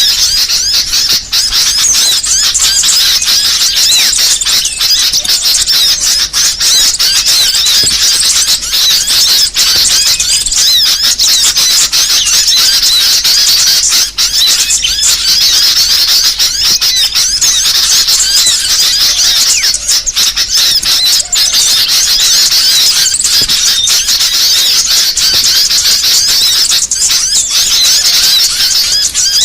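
Small songbirds chirping and twittering, a dense stream of rapid, high-pitched overlapping notes without a break. It is a masteran recording of mixed small-bird (burcil) song, played to train and lure songbirds.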